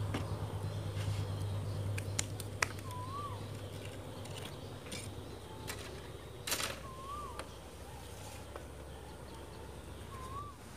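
A bird calling three times outdoors, each call a short whistle that rises and falls, spaced about three to four seconds apart. A few sharp clicks and a louder rustle about six and a half seconds in, from things being handled on a bamboo platform.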